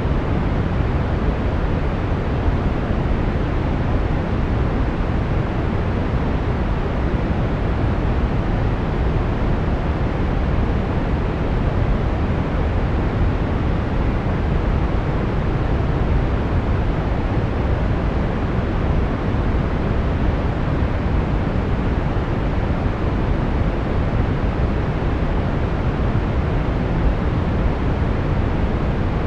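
Steady brown noise: an even, deep rushing hiss, strongest in the lows and falling off toward the highs, with no changes.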